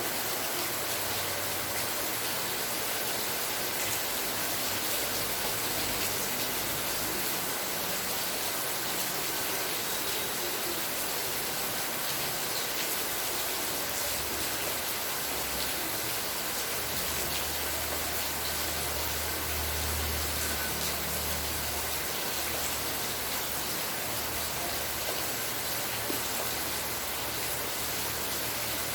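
Steady heavy rainfall, an even hiss of falling rain with no break. A low rumble swells for several seconds around the middle.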